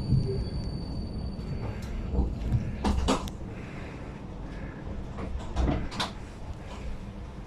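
Inside a Vienna tram car: a low running rumble, with a steady high whine that fades out about two seconds in, then several sharp clunks and clicks.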